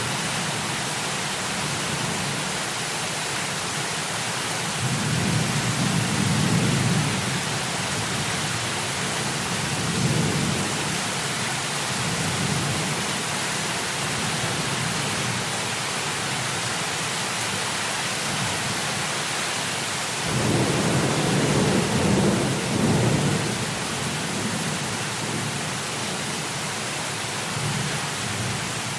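Steady heavy rain with thunder rolling in low rumbles: one swells a few seconds in, a short one follows, and a longer one comes about two-thirds of the way through.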